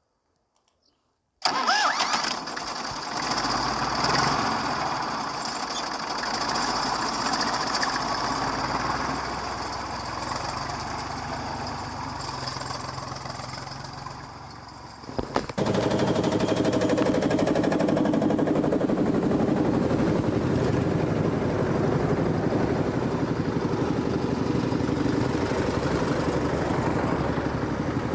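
Tractor engines running. About halfway the sound changes suddenly to a louder, steady engine running close by.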